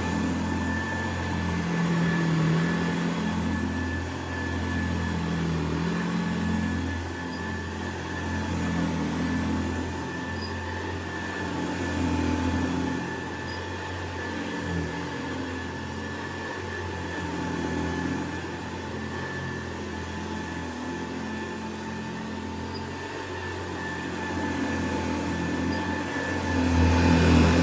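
Hoover Convertible Model 70 upright vacuum cleaner running: a steady motor hum with a thin whine over it, swelling and easing every couple of seconds.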